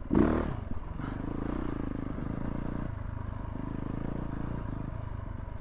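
Yamaha YZ450F dirt bike's 450 cc single-cylinder four-stroke engine running at low revs, with a brief louder burst just after the start and the note swelling and easing a few times as the throttle changes.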